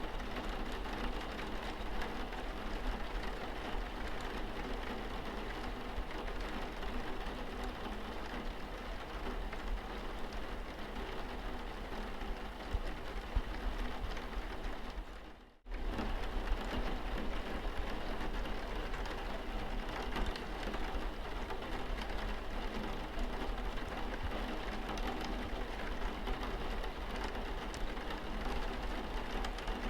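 Rain falling steadily on a car's windscreen: a dense, even patter over a low steady hum. The sound cuts out for a split second about halfway through, then resumes.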